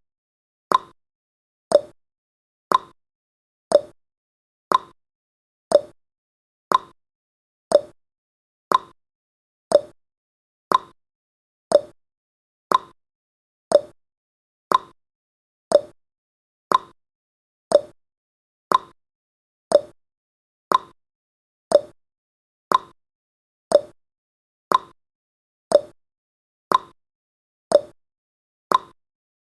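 Clock tick-tock sound effect counting the seconds of a countdown timer: one short click every second, alternating between a higher tick and a lower tock.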